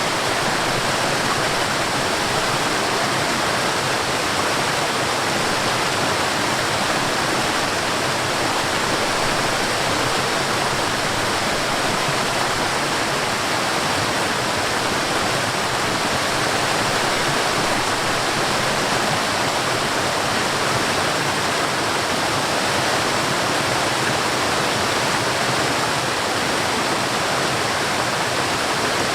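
Forest waterfall: water falling and rushing in a steady, unbroken hiss.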